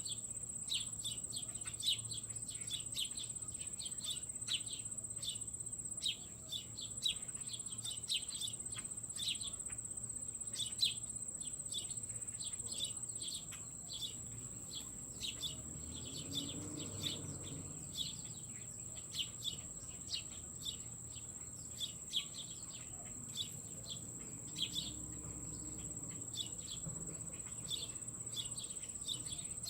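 Small birds chirping with short, high calls several times a second over a steady high-pitched insect buzz. A faint low rumble swells and fades about halfway through.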